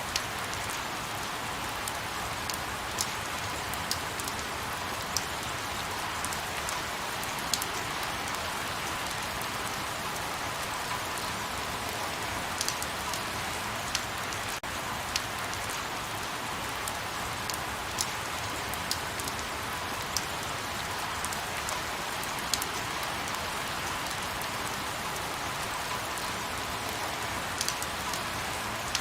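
Light rain falling steadily, a soft even hiss with scattered close drops ticking on a surface.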